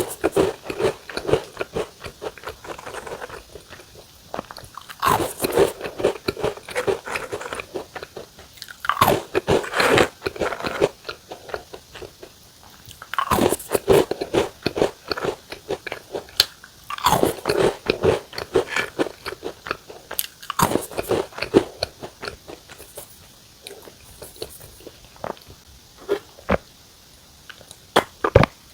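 Crunchy biscuit snacks being bitten and chewed: continuous crisp crunching, with louder bursts of bites every few seconds.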